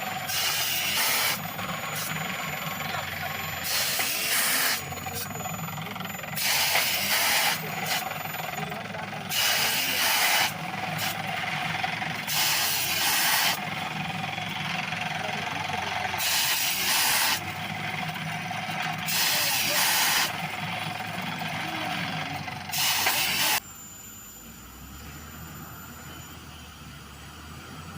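Engine of a borewell drilling rig running steadily, with loud blasts of air hiss roughly every three seconds. The engine and the blasts stop about 23 seconds in, leaving a fainter steady hiss.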